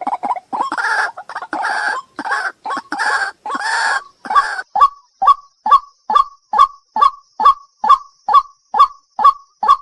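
Waterhen calling: a run of harsh croaking notes for about the first four seconds, then a steady series of short, sharp calls, a little over two a second.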